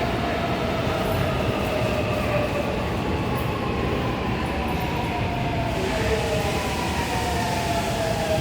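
Seoul Subway Line 7 train pulling into a station, its motors whining in several tones that slowly fall in pitch as it slows, over a steady rumble of wheels on rail.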